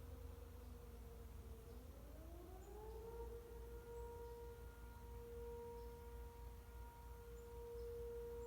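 Sentry 10V outdoor warning siren sounding for a tornado warning, faint and distant. Its pitch sags a little, climbs back up about two seconds in, then holds a steady tone.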